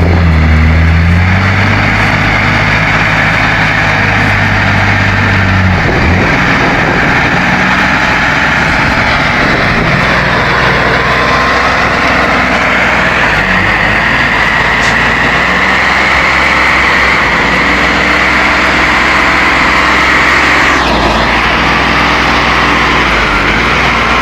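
Heavy logging truck's diesel engine running steadily, its pitch shifting up and down as it works.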